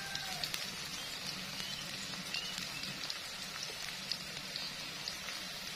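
Spice paste, chilies and greens sizzling in oil in a steel wok on a gas stove: a steady, fairly faint hiss with scattered small pops.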